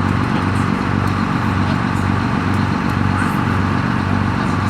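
Tour boat's engine running steadily under way, a low hum with a constant wash of noise over it.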